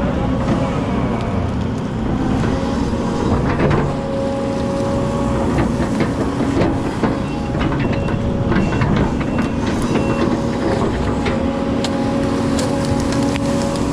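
Excavator's diesel engine running steadily with a whine that swells and eases as the hydraulics work, and scattered sharp knocks and scrapes as debris is handled.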